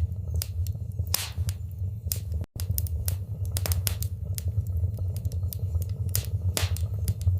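Wood fire in a fireplace crackling, with irregular sharp pops and snaps over a steady low rumble of the burning. The sound cuts out for a split second about two and a half seconds in.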